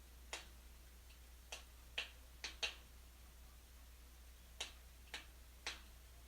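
Wood fire burning in a fireplace, crackling with about eight sharp, irregular pops, over a low steady hum.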